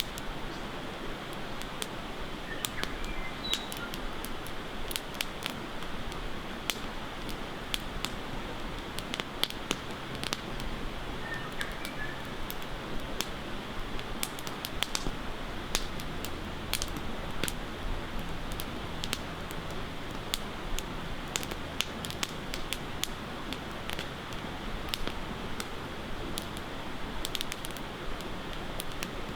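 Wood campfire crackling, with frequent sharp pops and snaps over a steady rush of flowing water. A few short bird chirps come in briefly, a few seconds in and again about twelve seconds in.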